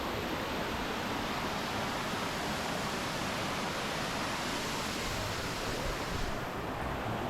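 A 14-metre waterfall rushing steadily, an even wash of falling water. The highest hiss thins a little about six seconds in.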